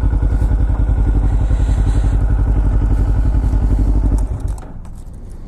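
Motorcycle engine idling with an even pulse, then switched off about four seconds in.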